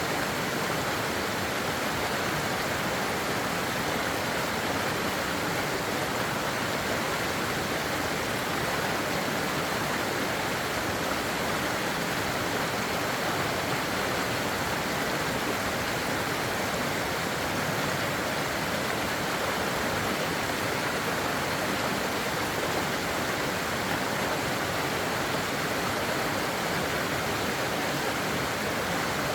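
Steady, unbroken rushing of water, even throughout with no distinct splashes or drops.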